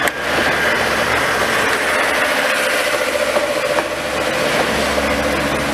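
Passenger coaches rolling slowly past at close range: a steady rumble of wheels on the rails with a few light clicks over rail joints and a faint steady whine through the middle.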